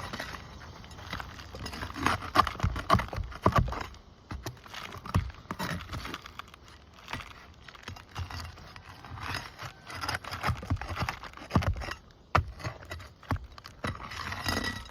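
Steel flat bar working under asphalt roof shingles to pry out the roofing nails: irregular scrapes, clicks and knocks, busiest in the first few seconds.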